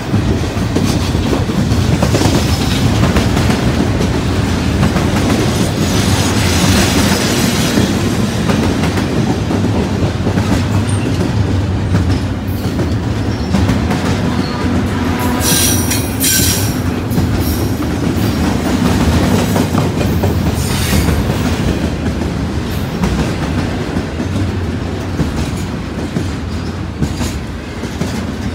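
BNSF double-stack intermodal train's container cars rolling past close by: a steady, loud rumble of steel wheels on rail with clickety-clack over the rail joints, and brief high-pitched wheel squeals about halfway through and again a few seconds later.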